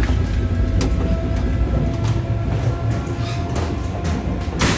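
Electric commuter train running, heard from the vestibule between cars: a steady low rumble of wheels on rails with the rattle of the automatic coupling. Several sharp clanks stand out, the loudest just before the end.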